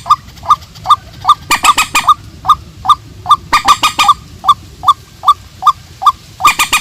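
White-breasted waterhen and purple swamphen calling. A short 'kook' note repeats steadily about two and a half times a second, with harsh screeching calls in bunches of a few at about 1.5 s, 3.5 s and near the end.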